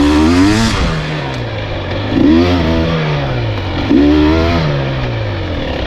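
Dirt bike engine revving in three throttle bursts, its pitch rising quickly with each and falling away between them.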